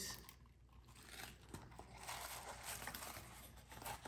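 Faint crinkling and rustling of packing material as a parcel is unwrapped by hand, with a few small clicks.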